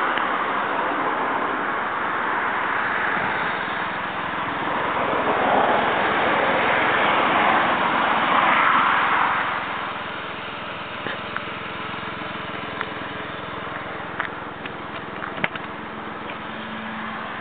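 Smart 0.6i turbo's three-cylinder engine running through a tuned Sportiva exhaust, growing louder to a peak about eight to nine seconds in, then dropping off to a lower, steadier level. A few sharp clicks sound near the end.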